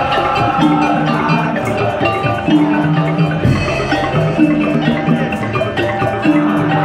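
Madurese daul (tongtong) band playing: mallet-struck percussion and drums over a low sustained phrase that repeats about every two seconds.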